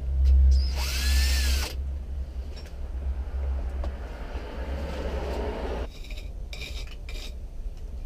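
A power drill driving a screw that fixes a wall tie for brickwork to the house: one short run about a second in, rising and falling in pitch, over a steady low rumble.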